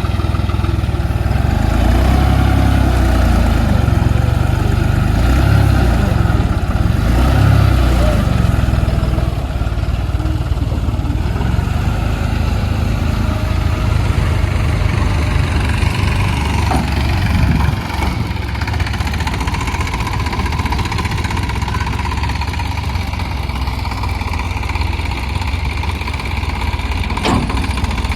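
Diesel tractor engine of a tractor loader running steadily, louder during the first nine seconds or so, then settling to a lower, even run.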